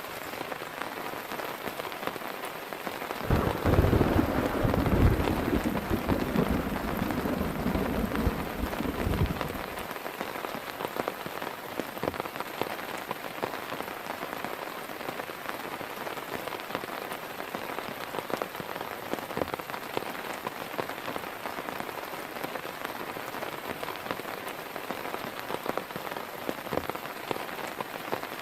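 Steady heavy rain falling. About three seconds in, a low rumble of thunder rises and is the loudest sound for about six seconds before it stops.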